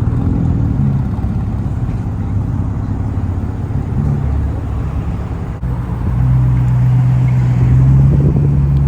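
Performance car engines idling and running at low speed, a deep steady rumble; about six seconds in one engine becomes louder with a steady low drone.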